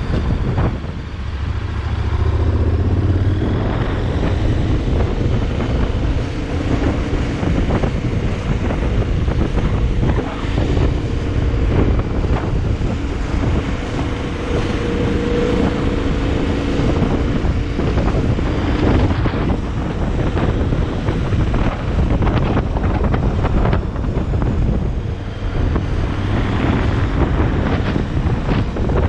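Heavy wind buffeting the microphone, with a vehicle engine running steadily underneath.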